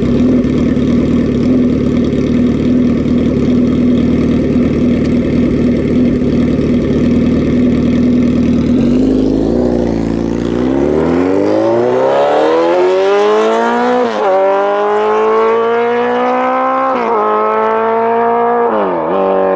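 Suzuki Hayabusa inline-four through a full 4-into-1 Voodoo exhaust with the baffle fitted, running steadily, then accelerating hard from about nine seconds in with a rising pitch and three upshifts that each drop it briefly.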